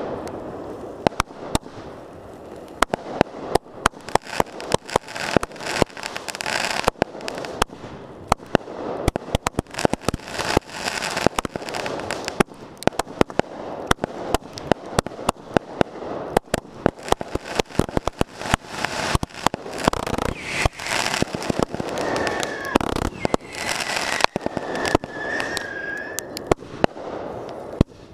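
Aerial fireworks bursting in a dense, continuous barrage: many sharp bangs in quick succession, with crackle between them. A short wavering whistle rises above it late on.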